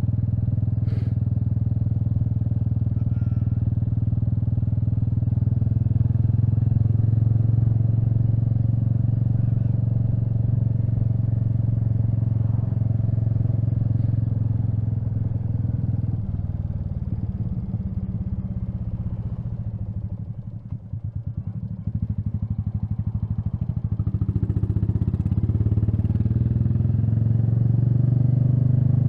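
Royal Enfield Meteor 350's single-cylinder engine running at a steady cruise. About two-thirds of the way through it eases off to a slower pulsing throb, then picks up again near the end.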